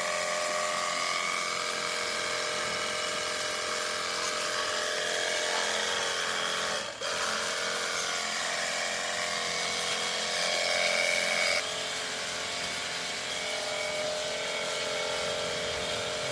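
A small electric motor whirring steadily, with a brief drop about seven seconds in and a change in its tone and a slight drop in level about eleven and a half seconds in.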